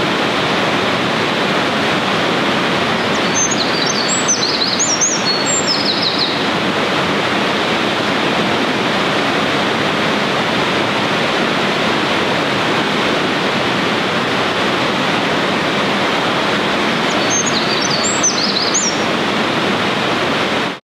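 Eurasian wren singing two bursts of rapid, high, tumbling song, one about three seconds in lasting some three seconds and a shorter one near the end, over the steady rush of a gorge stream that is louder than the bird.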